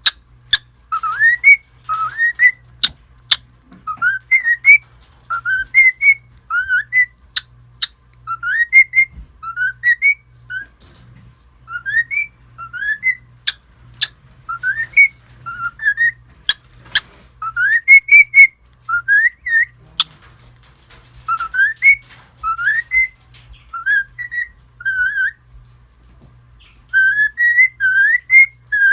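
Cockatiel whistling a repeated tune of short rising notes, mostly in pairs, with a brief pause near the end. Sharp clicks come between some of the phrases.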